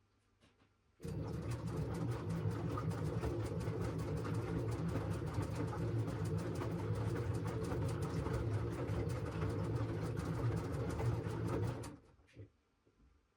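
LG washing machine's drum turning through a wash cycle: the motor starts about a second in, runs steadily with a busy churning, ticking texture over a low hum for about eleven seconds, then stops near the end in the pause between drum turns.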